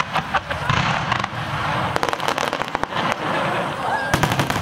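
Aerial fireworks shells bursting in a rapid series of sharp bangs and crackles, thickest about two seconds in and again near the end.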